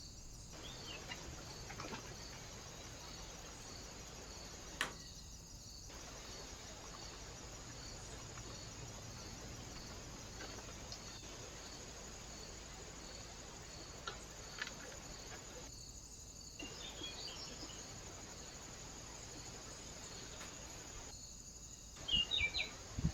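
Outdoor trail-camera ambience at a bird feeder: a steady hiss with a faint, evenly repeating cricket-like chirp, broken by a few short silent gaps. Near the end come a few short bird chirps and several loud knocks.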